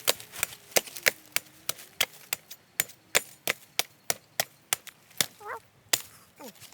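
Rapid chopping with a blade into a green jelly coconut: a steady run of sharp blows, about three a second.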